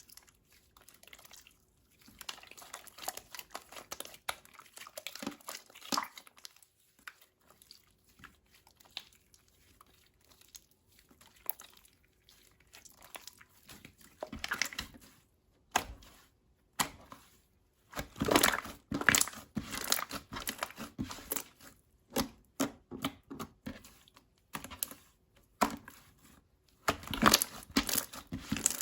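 Slime being pressed, stretched and poked by hand, making sticky crackles and pops in irregular bursts. The bursts are loudest about two-thirds of the way through and again near the end.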